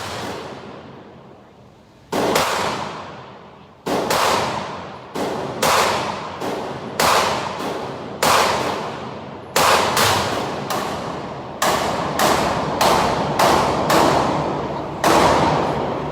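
Gunshots at a shooting range: a string of about eighteen single shots fired at an uneven pace, roughly one a second after a pause of about two seconds, each ringing out with a long echoing decay.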